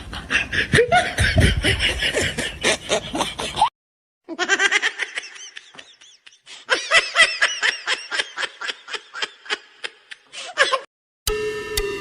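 People laughing in quick, repeated bursts, in two stretches broken by brief cuts. Electronic music starts near the end.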